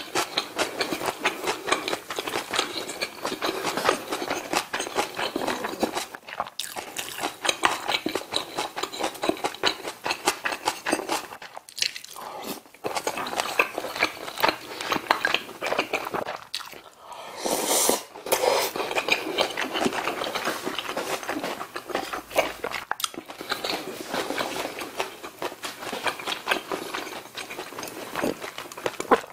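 Close-miked, wet chewing and mouth sounds of a person eating rice and Korean side dishes, with a short noisy slurp from a spoonful of stew a little past halfway.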